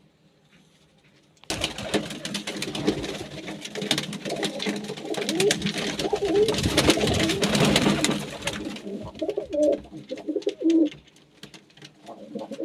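Pigeons cooing, with a dense clatter of clicks and rustling over the calls from about a second and a half in until about nine seconds; after that the cooing goes on more softly in separate calls.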